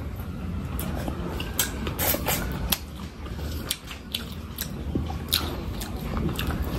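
Close-miked eating: a person biting and chewing, with irregular sharp, wet mouth clicks several times a second.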